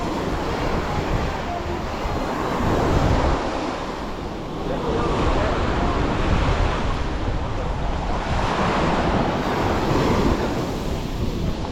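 Sea waves breaking and washing up the beach, swelling and easing about three times, with wind rumbling on the microphone.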